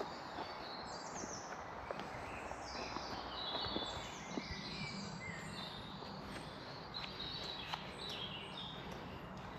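Several songbirds singing at once, overlapping chirps and quick falling trills, over a steady low background hiss.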